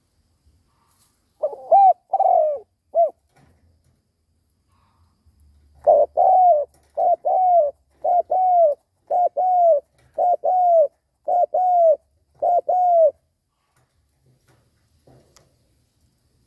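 Spotted dove cooing: a short three-note phrase, then after a pause a run of about seven paired coos, roughly one pair a second, evenly repeated. This is the rapid 'gù' cooing of a decoy cock dove, used to provoke wild doves.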